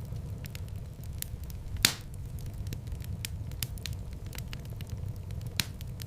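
Wood fire burning in a fireplace: a steady low rumble under frequent small crackles and snaps, with a louder pop about two seconds in and another near the end.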